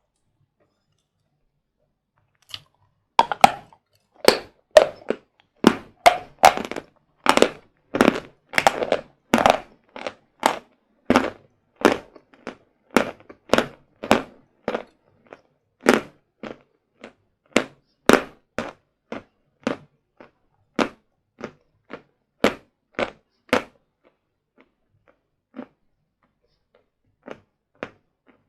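Hard sawn chalk bars being bitten and chewed close up, in a steady run of dry, crisp crunches at about two a second. The crunches begin about three seconds in and thin out to a few faint ones near the end.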